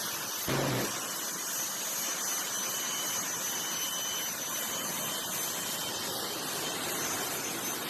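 Jet engine on a jet-powered drag vehicle running steadily, a continuous rushing roar with a thin high turbine whine, the vehicle held in place rather than launching.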